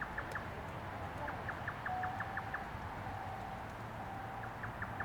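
A bird singing: phrases of quick, even chirps, about six a second, repeated with pauses, with fainter steady whistled notes from about two seconds in.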